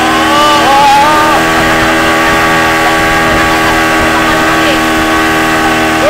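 Motorboat engine running at a steady pitch under way, with people shouting in the first second or so.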